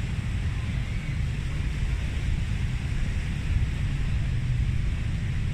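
Wind buffeting the microphone in a steady rumble, with the hiss of sea surf behind it.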